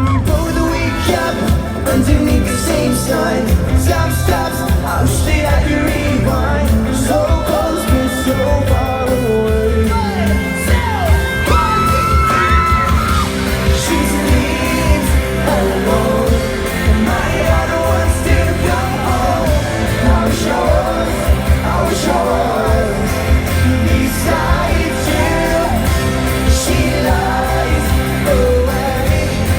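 Live pop-rock band in a large hall: a lead voice singing over drums, bass and guitar, with yells from the crowd.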